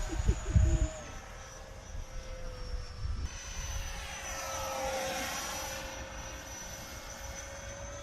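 64 mm FMS electric ducted fan on a 4S-powered RC F-35 parkjet whining steadily in flight. Its pitch drops a little about a second in and shifts as the jet flies past near the middle. A few low thumps come in the first second.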